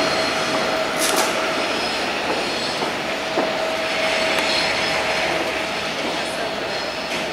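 Locomotive-hauled passenger train rolling slowly away over curved track and points, its carriage wheels giving a steady thin squeal, with a few sharp clicks over the rail joints.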